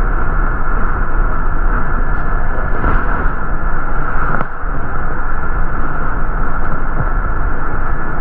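Steady, loud drone of a city bus running, engine and road noise heard from inside the cabin, with a short click about four and a half seconds in.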